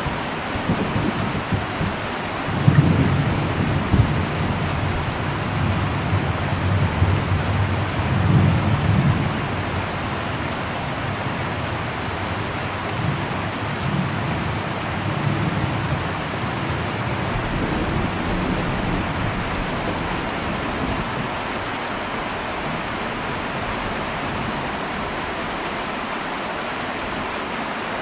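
Heavy rain drumming steadily on an old metal roof, with a long roll of deep thunder rumbling through the first half that fades out about halfway through, leaving the steady rain.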